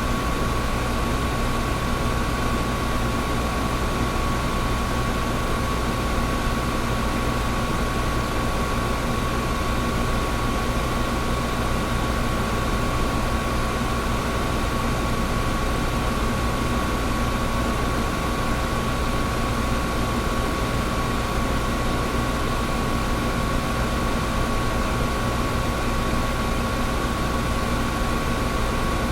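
Air conditioner running steadily: an even whoosh of air with a low rumble and a steady high hum.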